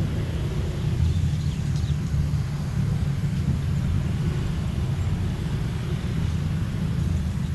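Jet airliner engines heard during a takeoff, a steady low rumble.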